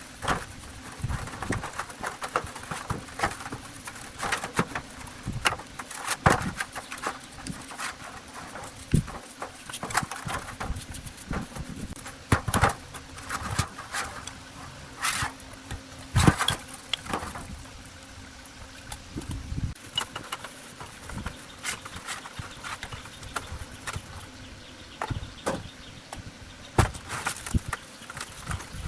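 Irregular knocks and clicks of hand tools working on metal parts, spaced unevenly with short pauses between them.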